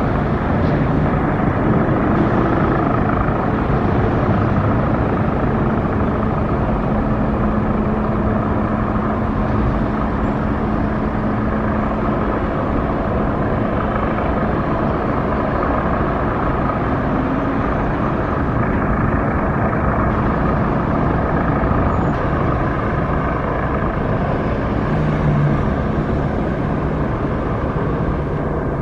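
Steady motor traffic and road noise, with a low engine hum partway through.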